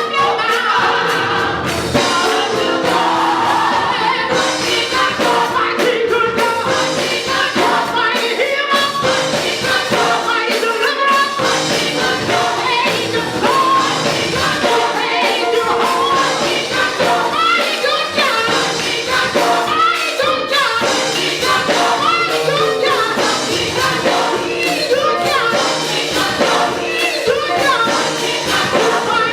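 Gospel choir and congregation singing with instrumental accompaniment.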